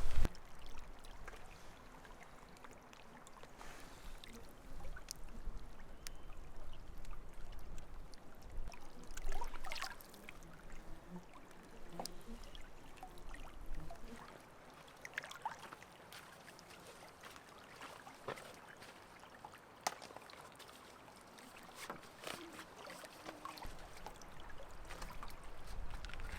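Quiet lakeside ambience: faint water lapping and trickling, with scattered small clicks and a few brief higher sounds.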